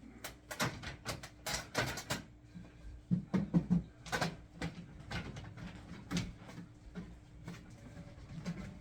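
Irregular clicks and knocks of objects being handled and set down, loudest in a quick cluster about three seconds in, over a faint steady hum.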